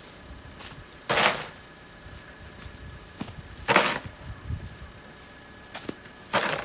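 Snow being shovelled: three short scraping strokes about two and a half seconds apart.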